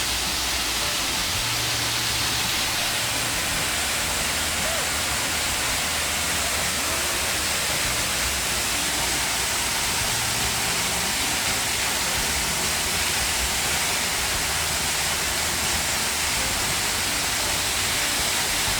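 Waterfall rushing close by: a steady, even roar of falling water that does not change.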